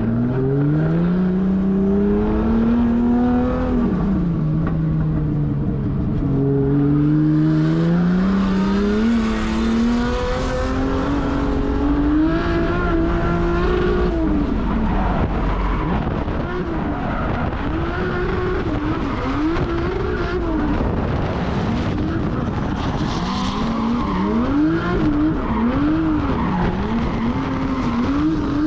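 A freshly rebuilt, barely run-in 1.5JZ straight-six in a drift car, revving up and down through a lap. The engine note climbs and falls in long sweeps at first, then wavers quickly up and down under rapid throttle changes, with tyres squealing.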